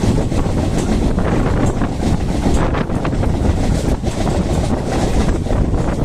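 Mumbai local electric train running at speed, a steady loud rumble with scattered clicks of the wheels, under heavy wind buffeting the microphone.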